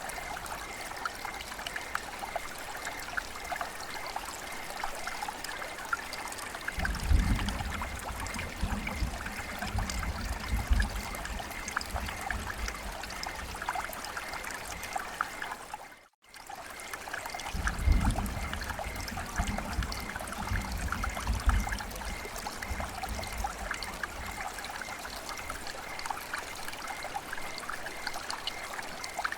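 Steady rain and trickling water, with dense small drips. A low rumble comes in twice, once about a quarter of the way in and again about two-thirds in, and the sound cuts out completely for a moment about halfway before resuming.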